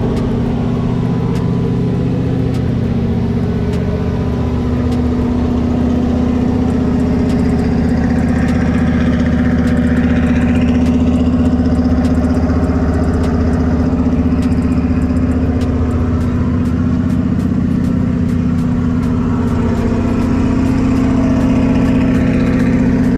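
Car engine idling steadily, a loud, even note that holds its pitch throughout.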